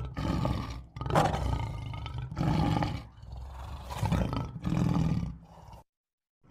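A large animal giving a series of about five loud, low calls roughly a second apart, cut off abruptly near the end.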